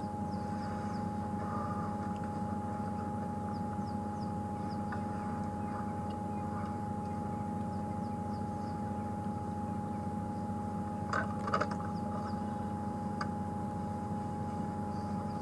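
Safari game-drive vehicle's engine running steadily, with a constant higher hum over it and faint high chirps; a short clatter about eleven seconds in.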